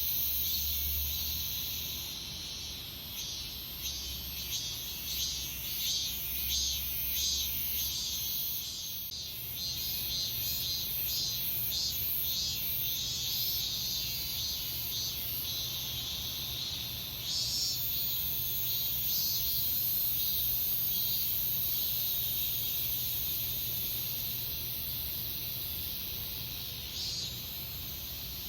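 Cicadas singing: a steady, high-pitched drone. For several seconds near the start, one insect's song pulses a few times a second over the drone.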